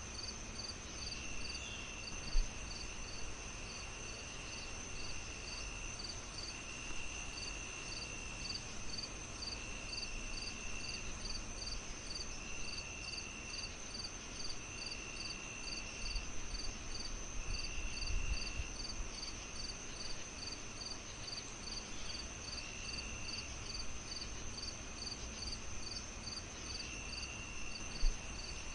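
Crickets chirping in a steady layered chorus: quick regular chirps about three a second over a continuous high trill, with a lower buzzing call about a second and a half long repeating every couple of seconds. Underneath, a low rumble of a fireplace fire with two sharp pops, one a couple of seconds in and one near the end.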